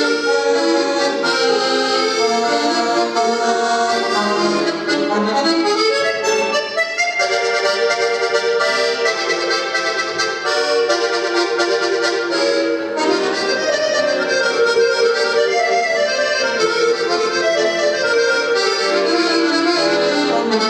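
Solo accordion playing a lively concert piece in full sustained chords, with quick sweeping runs about six and thirteen seconds in.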